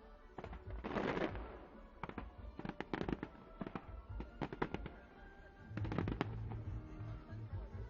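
Fireworks going off: a dense crackling burst about a second in, then a run of sharp bangs and pops, with a quick cluster about six seconds in.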